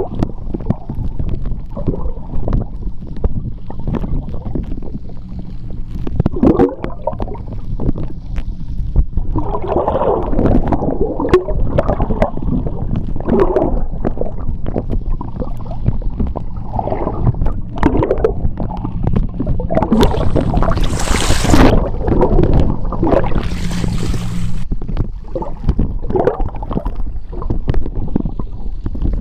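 Sea water heard underwater: continuous low gurgling and churning with a steady low hum beneath. Two hissing rushes of bubbles come about two-thirds of the way through, one shortly after the other.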